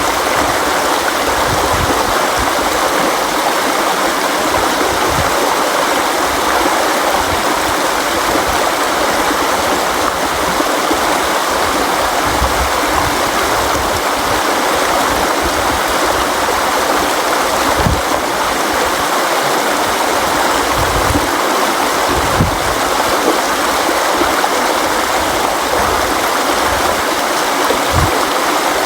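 River water flowing steadily, a constant rushing wash with occasional low gurgles and thumps of water.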